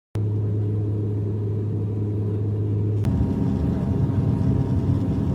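Steady low drone of aircraft engine noise. A click about three seconds in cuts it to a rougher drone with a few higher steady tones over it.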